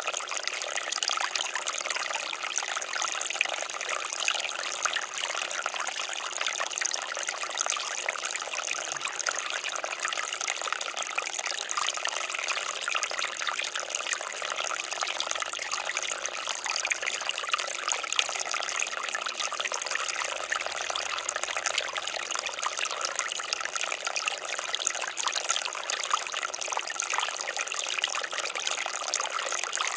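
Water fountain splashing steadily: a continuous patter of falling water with no let-up.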